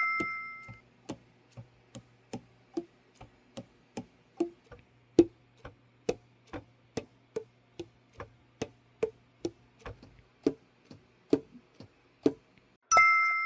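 Evenly spaced ticking, about two and a half ticks a second, like a clock. A bright ringing chime sounds at the start, fading away, and again near the end.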